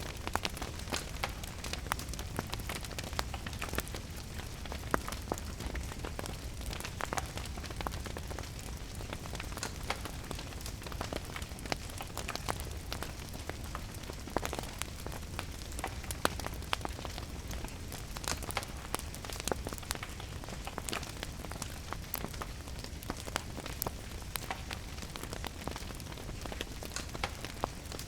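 Steady rain with a wood fire crackling, sharp little pops scattered irregularly through the constant patter.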